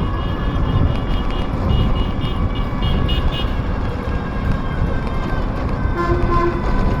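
Steady loud rumble of a vehicle in motion, with faint higher ringing tones over it and a brief tone about six seconds in.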